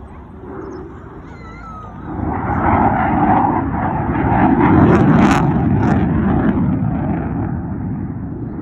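Military fighter jet flying past: a loud jet roar builds about two seconds in, peaks near the middle and slowly dies away.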